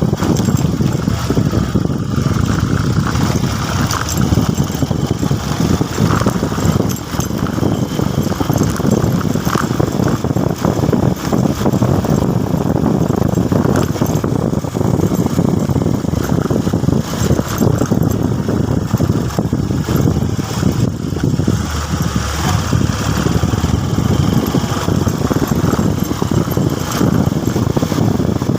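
Motorcycle running on the road: a steady, dense low rumble.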